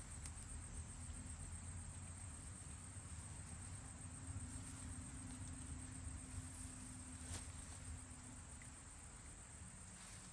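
Faint jungle ambience: a steady high-pitched insect drone, with a few soft clicks.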